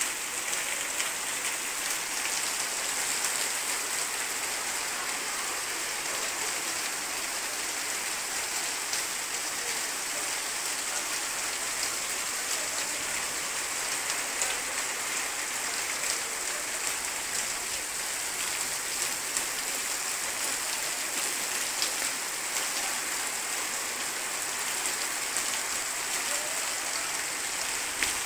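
Heavy rain falling steadily, pouring off the edge of a corrugated metal roof and splashing onto flooded ground, with scattered sharp ticks of single drops.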